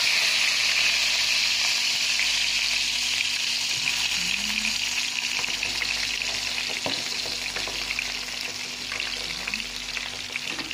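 Potato chips and a sausage sizzling in overheated oil in a frying pan, a steady hiss that slowly dies down.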